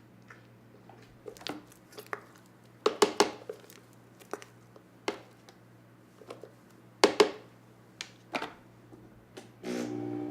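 Scattered knocks and clunks as a spatula works a thick frozen mix in a blender jar and the jar is handled. Near the end the blender motor starts up and speeds up.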